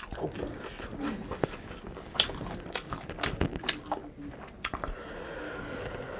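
A person chewing and biting food close to the microphone: irregular wet mouth clicks and crunches, several a second.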